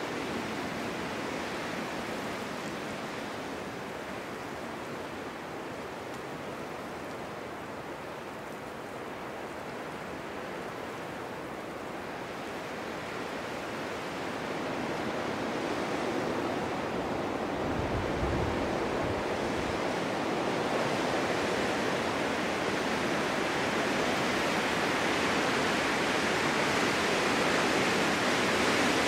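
Snowstorm wind blowing steadily, swelling into a stronger gust over the second half, with a brief low rumble of wind buffeting the microphone about two-thirds of the way in.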